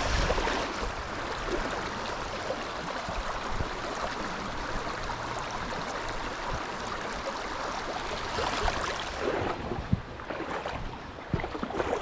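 River water rushing steadily, an even wash of current.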